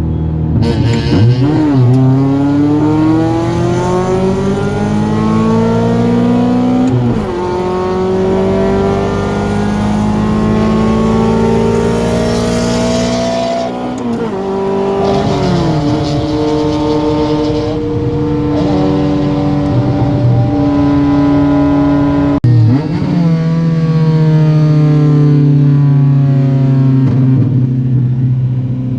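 Honda H23A four-cylinder engine in an Accord pulling hard under acceleration. Its pitch climbs steadily through each gear and drops sharply at each of several upshifts.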